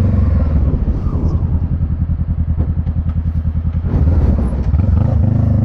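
Motorcycle engine running. It drops to a low, even putter for a few seconds, then picks back up to steady running about four seconds in.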